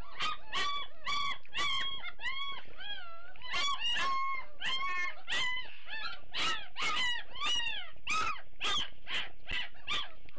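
Young Great Dane puppies whining and yelping: a rapid series of short, high cries, each rising and falling in pitch, about two a second, with some cries overlapping.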